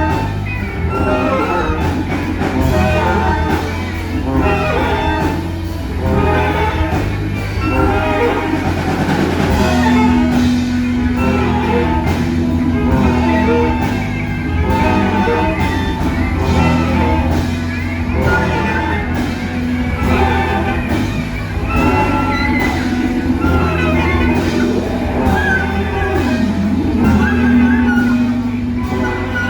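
Large improvising ensemble playing live: dense free-improvised music with many instruments sounding at once over a steady low bass. A single note is held for a long stretch through the middle, and short percussive hits run throughout.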